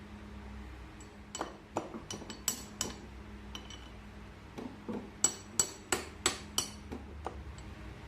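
Metal tool and parts clinking on metal: a few scattered clinks, then a quick run of about five ringing taps, about three a second.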